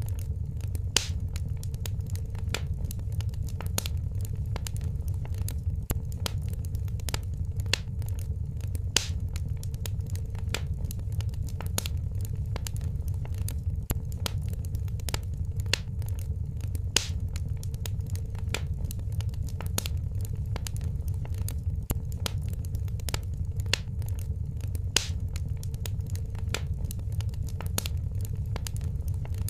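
Wood fire in a fireplace crackling, with frequent sharp pops over a steady low rumble.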